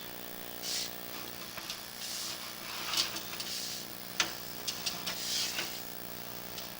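Sewer inspection camera's push cable being fed down the pipe: irregular clicks and short scraping hisses over a steady hum.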